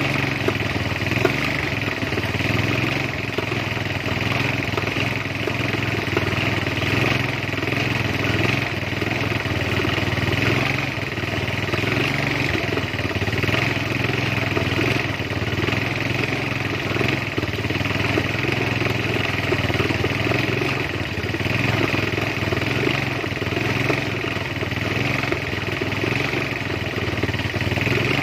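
Motor and gearbox of a two-way es puter ice cream churning machine running steadily, driving the stirrer and ice cream drum.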